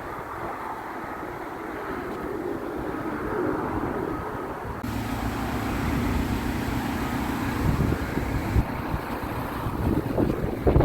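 Garbage truck engine running; about five seconds in a steady low hum sets in and the sound grows louder, with a few knocks near the end.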